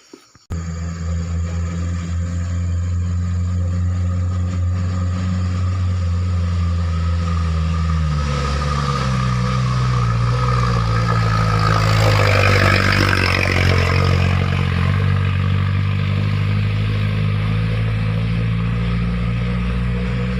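Truck engine running hard under load on an uphill climb, starting abruptly about half a second in. Its note shifts about eight seconds in and it is loudest around twelve to fourteen seconds in.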